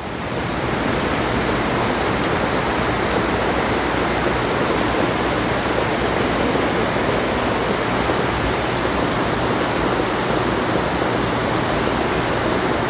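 Steady rushing noise of flowing water, even and unbroken, swelling in the first second and then holding level.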